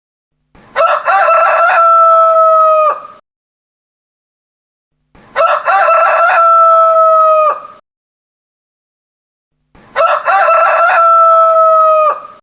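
Rooster crowing three times, about four and a half seconds apart. Each crow is a few short choppy notes leading into one long held note that drops off at the end.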